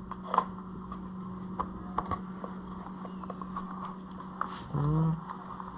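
Scattered light clicks and taps of hands pulling the fuel line breather hose off a Honda Rancher 420 ATV, over a steady low hum.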